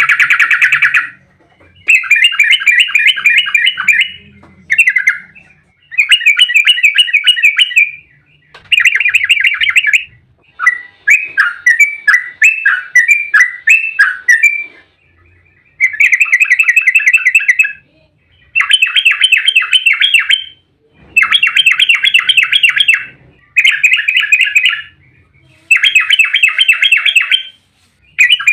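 Yellow-vented bulbul (trucuk) singing its fast rolling 'ropel' song: bursts of rapid chattering notes about two seconds long, repeated with short pauses. Midway, one longer phrase has more spaced notes that jump in pitch. It is an excited full song, of the kind used to provoke other trucuk birds into answering.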